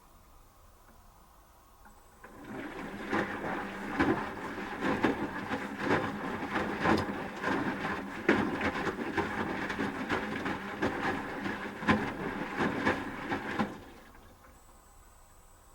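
Asko W6098X front-loading washing machine tumbling its drum during the heating stage of the wash. About two seconds in the drum starts turning, with water sloshing and laundry dropping in irregular soft knocks over a steady motor hum. It stops near the end as the drum pauses.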